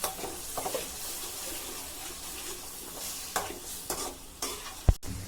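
Onion and tomato puree masala sizzling in oil in a pan as it fries, with a spoon stirring it and knocking against the pan several times, the loudest knock near the end.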